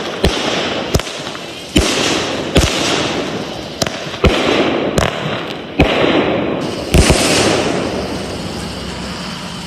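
25-shot consumer fireworks cake firing: sharp shots a bit under a second apart, each followed by a noisy crackling wash as the shells break. The shots stop about seven seconds in and the last wash dies away.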